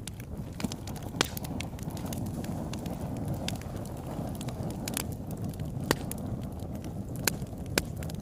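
Wood fire in a fireplace burning with a steady low rumble and irregular sharp crackles and pops, the loudest about a second in and a few more near the end.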